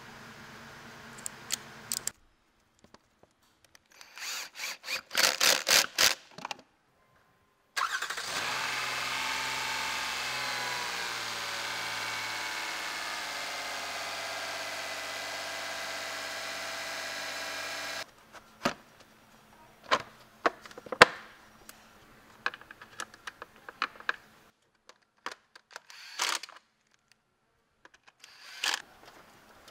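Toyota Highlander 3.3-litre V6 cranking in a short run of pulses. After a break it runs: the idle starts high, settles down over a few seconds and runs steadily for about ten seconds, the test start after fresh spark plugs. It cuts off, and scattered clicks and knocks of parts being handled follow.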